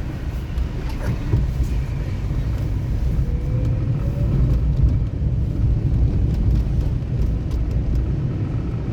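A car driving, with the engine and road noise making a steady low rumble.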